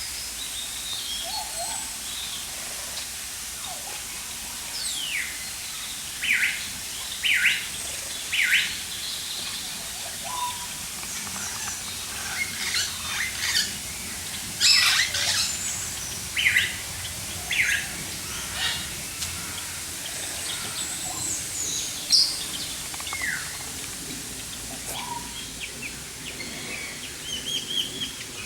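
Aviary birds chirping and calling: many short, separate calls, some falling in pitch, scattered over a steady background hiss.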